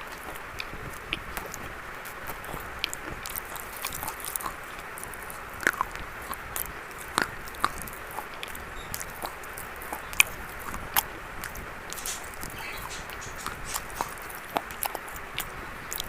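A person biting and chewing something dry and crunchy, with irregular sharp crunches over a steady hiss. The loudest crunch comes about ten seconds in.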